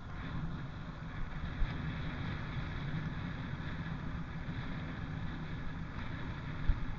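Steady rumble and wind noise of a trail bike being ridden along a forest trail, with a couple of short knocks, one about a second and a half in and one near the end.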